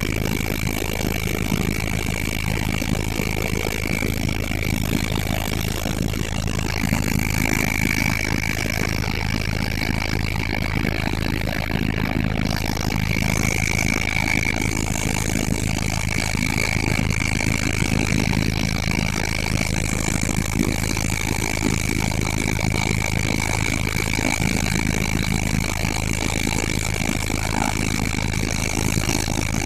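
Helicopter in flight: a steady engine drone with a low hum and a high constant whine.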